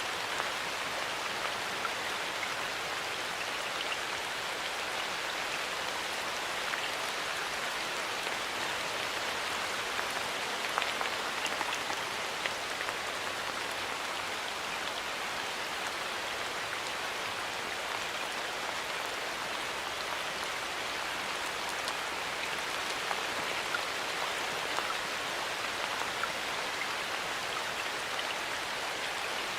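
Steady rain falling in a forest, a constant hiss of drops with scattered individual drip ticks.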